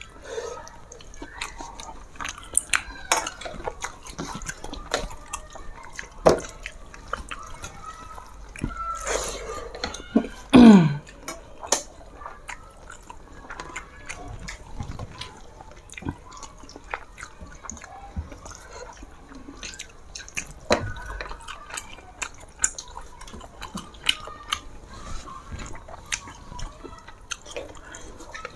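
Close-up wet mouth sounds of a person eating rice and fried fish: irregular lip smacks, chewing and small sticky clicks. About ten seconds in, two brief voice-like sounds fall in pitch.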